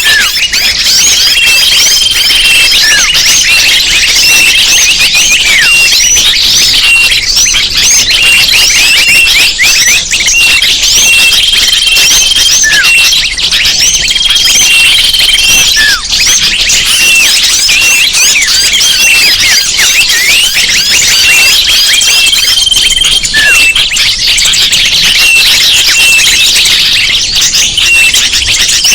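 Bird-lure recording: a dense chorus of many small birds chirping and twittering rapidly, with a steady held whistle note that recurs every few seconds.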